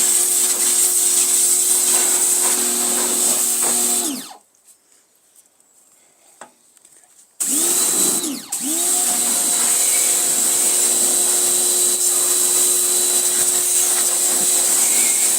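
Pressure washer running with its spray hissing. About four seconds in the motor winds down and stops. About three seconds later it starts up again with a rising whine, drops out briefly, then settles back to running steadily.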